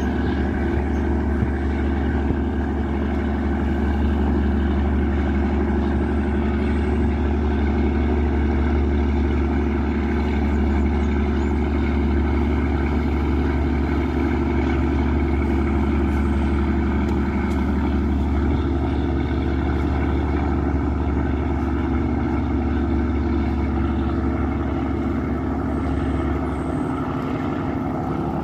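Yanmar 829 hp marine diesel engine of a river passenger boat running steadily under way, a deep, even drone. Near the end the deepest part of the drone falls away.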